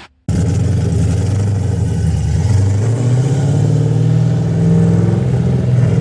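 2001 Chevrolet Camaro engine running steadily, its pitch rising a little about two and a half seconds in.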